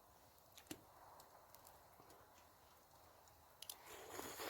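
Near silence with a few faint clicks, then a short rustling noise in the last second.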